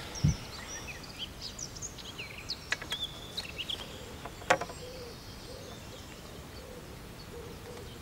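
Small birds singing in quick, short chirping notes over steady outdoor background noise, with a few sharp clicks, the loudest about halfway through.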